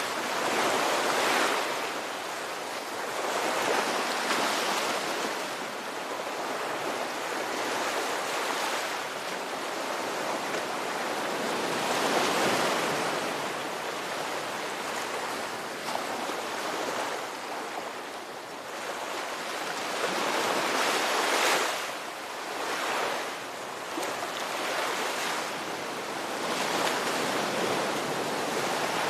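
Ocean surf: waves breaking and washing in continuously, swelling to louder surges every few seconds and ebbing between them.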